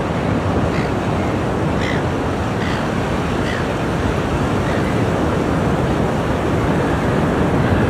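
Ocean surf: waves washing in as a steady, continuous rush of water.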